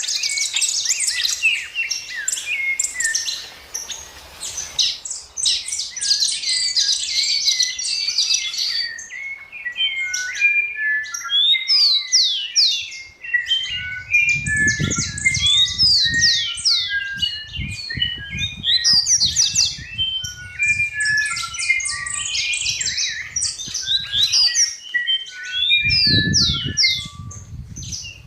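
Songbirds chirping and singing in a dense chorus of quick, overlapping high notes and short falling whistles. A low rumble comes in about halfway through and again near the end.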